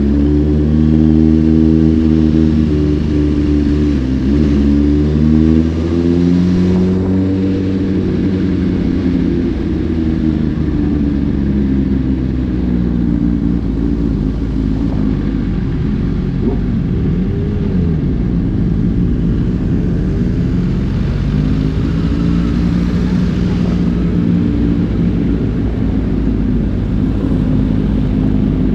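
Several superbike engines running at road speed, their pitch rising and falling as the riders throttle and shift, with more than one engine heard at once over a steady low drone.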